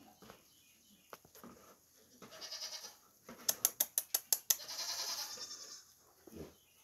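Young doeling goats bleating: a short bleat a little after two seconds in, then a longer, wavering bleat about five seconds in. Between the two comes a quick run of about seven sharp clicks.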